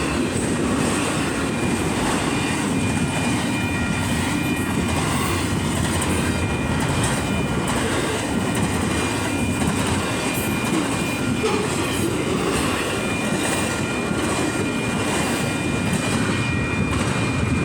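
Union Pacific train's cars rolling past on the rails: a loud, steady wheel-on-rail noise that holds even throughout.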